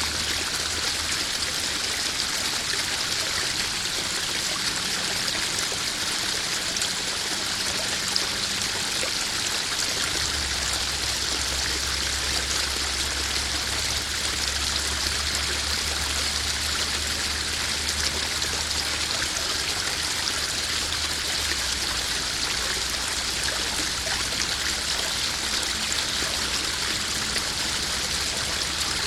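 Koi pond waterfall splashing and trickling steadily into the pond.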